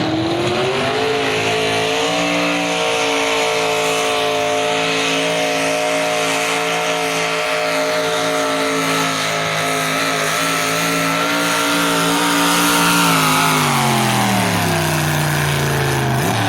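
Pulling tractor's engine climbing to high revs in the first second or two, held at full throttle under load for most of the pull, then winding down near the end as the pull finishes.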